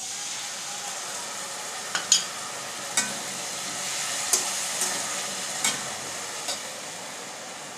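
Capsicum, onion and green chilli sizzling steadily in a kadai over a high flame, with a spoon clicking against the vessel about seven times while the mixture is stirred.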